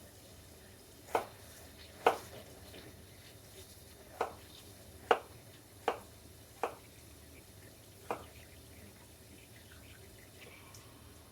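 Kitchen knife coming down on a cutting board in single sharp knocks, seven of them at uneven spacing, mostly about a second apart, with a longer pause after the last one.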